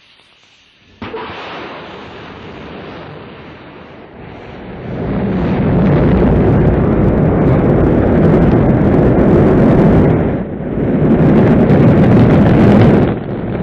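Rocket launch: an abrupt start about a second in, then the engines' exhaust noise builds to a loud, deep, rumbling roar that holds, with two brief dips near the end.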